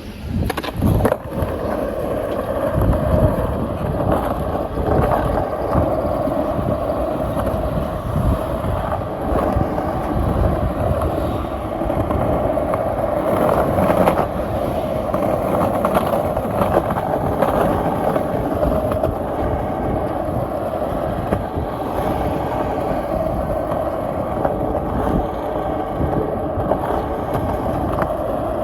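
Skateboard wheels rolling steadily over pavement, a continuous rumble with a few sharp clacks over joints and bumps.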